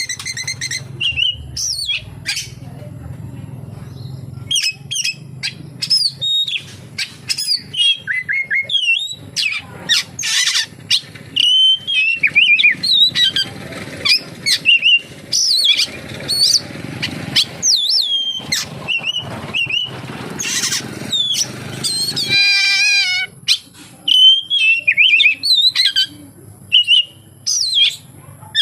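Oriental magpie-robin (kacer) singing a long, varied song of sharp whistles, chirps and quick slurred notes, with a fast rattling trill about two-thirds of the way through. The song is packed with mimicked phrases, including calls of the white-shouldered triller (kapasan tembak).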